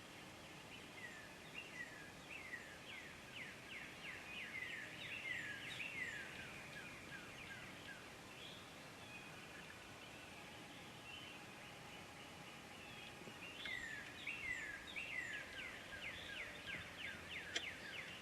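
A bird calling two long, fast series of downslurred notes, the first about a second in and the second near the end, over faint outdoor background noise.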